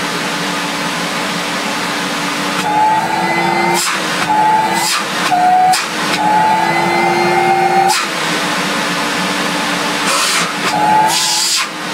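Electrolux Z345 Automatic canister vacuum cleaner motor running with no hose fitted: a steady whine and rush of air whose pitch rises and dips several times. A few knocks sound over it.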